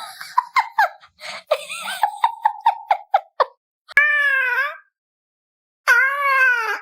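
A domestic cat vocalising: a rapid string of short chirps and squeaks, then two drawn-out meows, each just under a second, about four and six seconds in.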